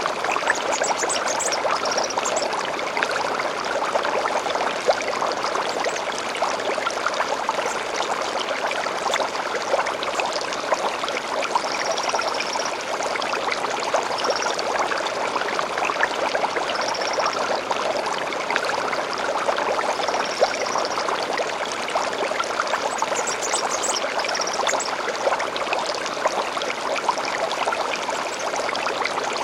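Small stream babbling and trickling steadily, with short high bird calls now and then, a few near the start and several more in the second half.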